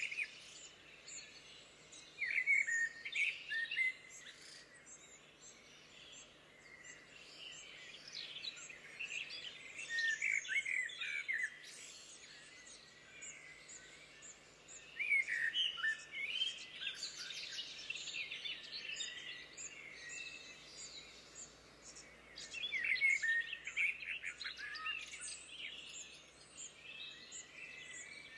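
Wild birds singing: bouts of quick chirps and trills every few seconds, with quieter spells between.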